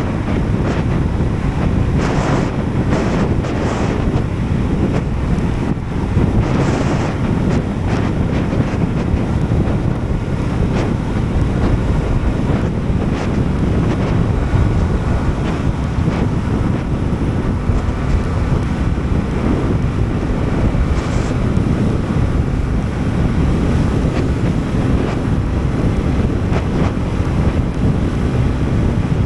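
Wind rushing over an action camera's microphone on a moving scooter, with the Sym Jet X 125's engine running underneath; a few short gusts of hiss in the first third.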